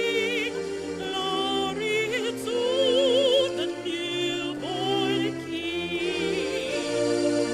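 A woman singing held notes with a wide vibrato over sustained chord accompaniment and a bass line. The voice drops out near the end while the accompaniment goes on.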